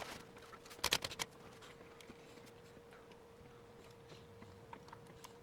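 A quick cluster of sharp clicks about a second in, then scattered faint ticks, over a faint steady hum.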